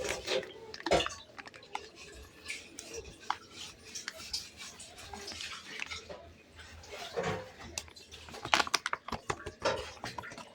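Small household items being handled: light knocks and clicks, with a sharper knock about a second in and a quick run of clicks near the end, like dishes or containers set down and moved.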